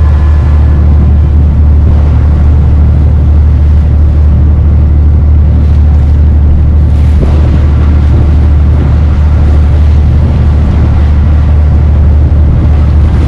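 A Dutch barge's inboard engine running steadily under way, a loud, unbroken low drone, with a brief rush of noise about seven seconds in.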